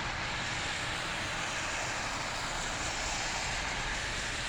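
Steady outdoor background noise, an even hum like distant engines or traffic, with no distinct events.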